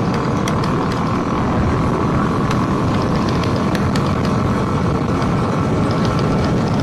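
Motorcycle running at steady road speed, heard from the rider's own bike: a constant rush of wind and engine noise with a faint steady whine.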